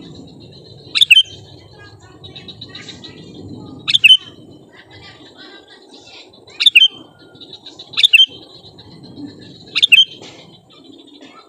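Sooty-headed bulbul (kutilang) calling: five loud, short two-note calls, a couple of seconds apart, with softer twittering between them.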